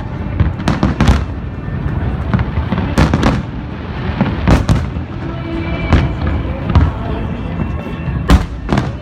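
Aerial fireworks bursting, with sharp bangs at uneven intervals about once a second, over a bed of music.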